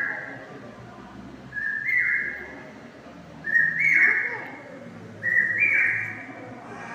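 A two-note whistle, a short lower note stepping up to a longer, higher held note, repeated four times about every second and a half to two seconds.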